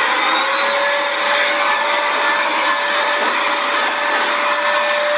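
Vacuum cleaner running steadily: a loud rushing noise with a steady whine on top.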